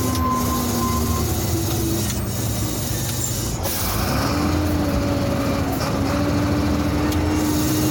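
Sinotruk HOWO truck's diesel engine running under way, heard from the cab. Its pitch sags for a couple of seconds, breaks off briefly, then picks up again about four seconds in, as in a gear change.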